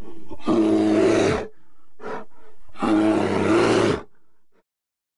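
A bear roaring twice, each roar rough and about a second long, with shorter huffs before and between them.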